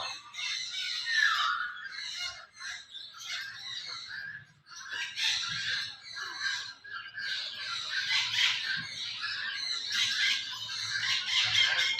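Many small birds chirping and squawking together, their calls overlapping in a continuous chatter with a few brief lulls.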